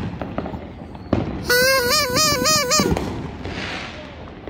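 Sharp bangs of celebratory fireworks or gunfire, one at the start and another about a second in. Then a loud, shrill, horn-like tone warbles up and down for just over a second.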